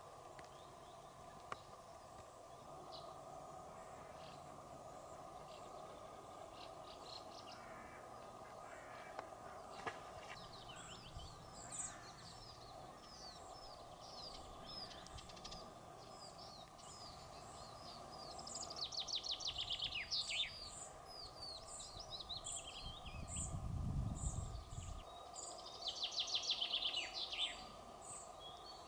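Birds singing: many short, repeated downward-sweeping chirps, with a loud rapid trill about two-thirds of the way in and again near the end. A steady hum runs underneath, and there is a brief low rumble shortly before the end.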